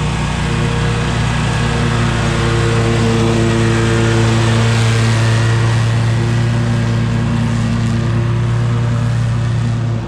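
Ride-on mower engine running steadily at a constant speed, with a slight rise and fall in pitch.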